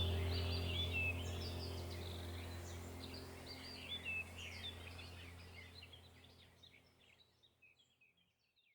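Birds chirping over a low steady hum, the whole sound fading out gradually to silence near the end.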